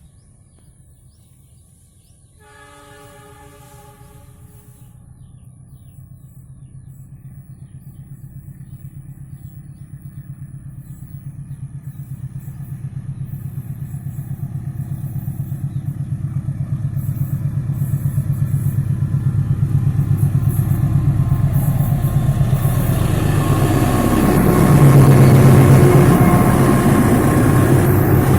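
CC201 diesel-electric locomotive sounding its horn in one blast of about two and a half seconds, a couple of seconds in. Then it approaches, its low engine and rail rumble growing steadily louder and loudest near the end.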